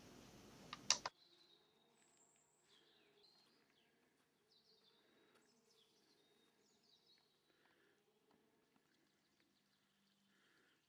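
Near silence: two short clicks about a second in, then very faint bird chirps.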